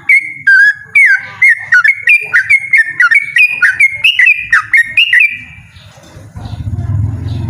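Yellow-vented bulbul (trucukan) singing a loud, fast run of bubbly whistled notes, rising and falling in quick succession, that stops about five seconds in. A low rumble starts near the end.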